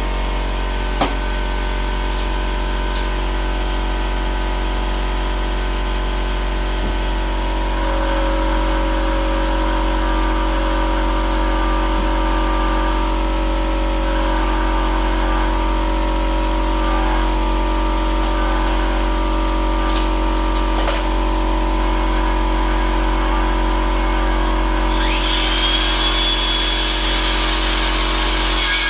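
Air compressor motor running steadily with a constant low hum, with a few sharp clicks. Near the end, sawing through wood begins.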